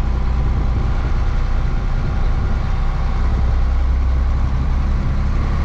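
Diesel engine of an articulated off-road haul truck running steadily, a low even engine note.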